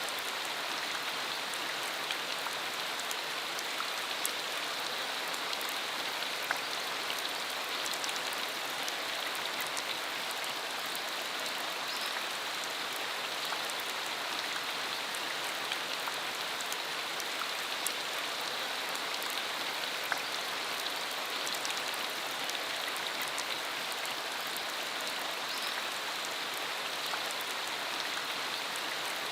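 Steady rain shower falling hard, an even hiss with scattered sharper drop hits.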